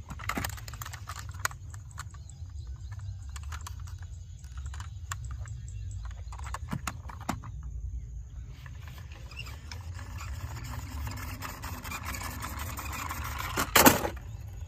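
Small clicks and knocks of diecast toy cars being handled, scattered through, with one louder knock near the end, over a steady low rumble.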